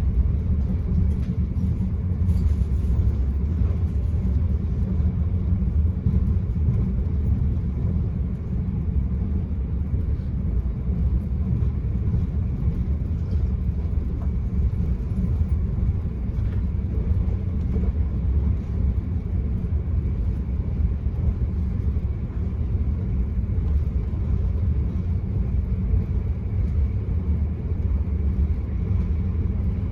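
Steady low rumble of an Enterprise passenger train running along the line, heard from inside a carriage: wheels on rail and running noise, unbroken and even.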